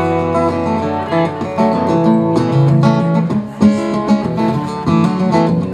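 Acoustic guitar strumming chords, the instrumental intro of a song played live.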